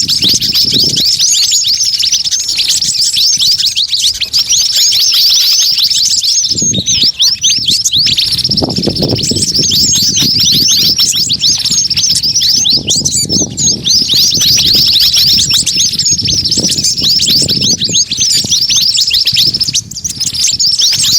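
Bird-lure recording of small songbirds, white-eyes and sunbirds, calling over one another in a dense, busy chorus of rapid high chirps and trills with no let-up. A low rumble comes and goes underneath.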